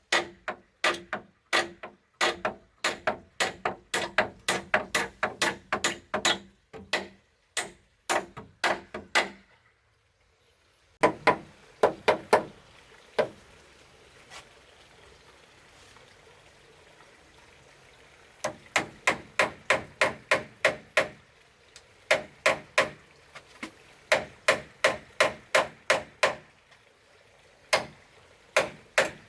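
Hammer striking wood in runs of sharp blows, about two a second. The blows stop for a moment about a third of the way in, come only now and then for a few seconds after that, then pick up again.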